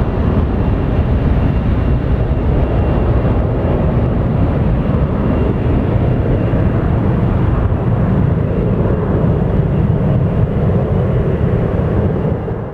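Boeing 737-800's CFM56-7B jet engines running at power: a loud, steady, deep rumble with a faint high whine above it. It falls away sharply at the very end.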